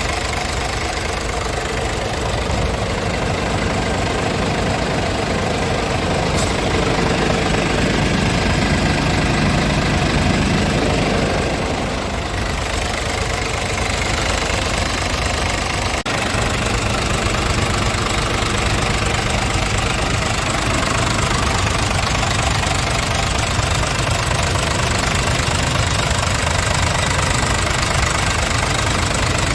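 Scania S tractor unit's diesel engine running at idle, steady, with a slightly louder, fuller stretch for a few seconds around the middle.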